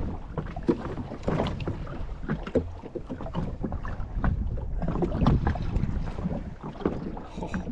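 Wind buffeting the microphone and water slapping against a jet ski's hull, with many scattered small knocks and clatters.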